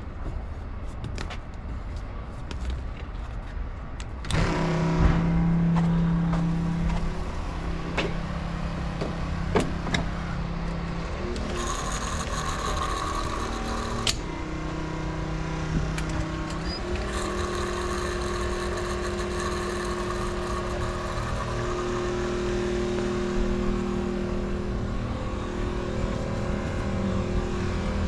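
Semi-truck's diesel engine running. It gets louder suddenly about four seconds in and then holds a steady hum whose pitch steps up and down a few times as the truck is driven, with a few sharp clicks.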